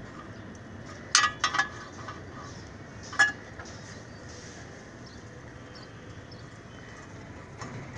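Hard metal objects clinking against each other: a quick cluster of three or four clinks about a second in, then one louder clink about two seconds later.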